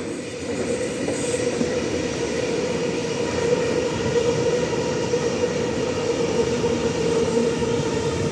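Electric suburban train running through the station: a steady rumble of wheels on rail with a steady hum over it, getting louder about half a second in.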